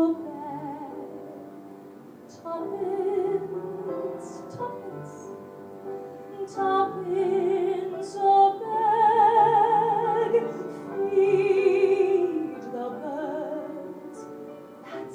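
A woman singing a slow ballad in a trained, operatic style with strong vibrato, over a held instrumental accompaniment. The sung phrases swell loudest about halfway through.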